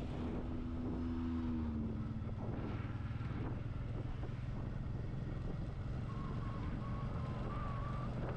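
Motorcycle riding at speed: a steady engine hum under heavy wind rush on the action-camera microphone. A higher engine note drops in pitch about a second in.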